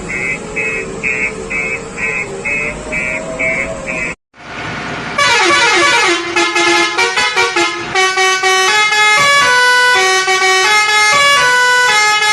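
Vehicle sound effect: a wavering motor hum with rapid, even beeping, about two and a half beeps a second, for about four seconds. After a brief cut, a children's tune of plinking notes plays.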